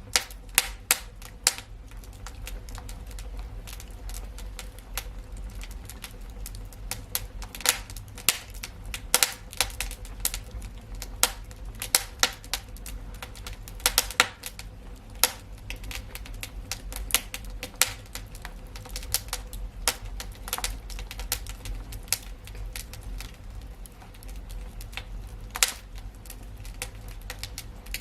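Wood fire in a fireplace crackling and popping: irregular sharp snaps, some much louder than others, over a steady low rumble of the burning fire.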